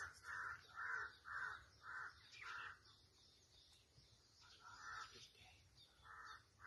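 A bird calling faintly: about six short calls at roughly two a second, then two more calls further apart after a pause.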